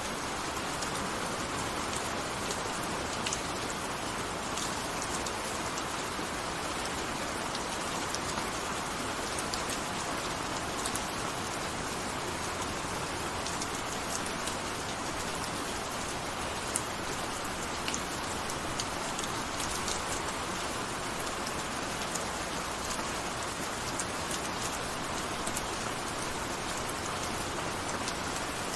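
Steady gentle rain falling, an even hiss with many small drop ticks scattered through it.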